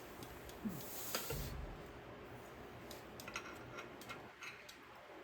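Scattered light clicks and taps of metal parts as a pin is worked into place in a Coleman axle's ring and yoke.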